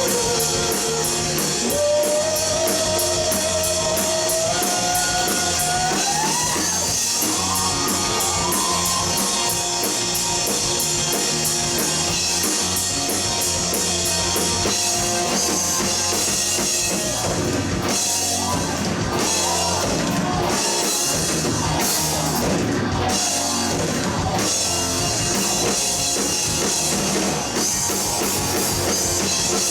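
Live rock band playing an instrumental passage: distorted electric guitars, bass and a drum kit with busy cymbals. In the first few seconds a long held note glides upward.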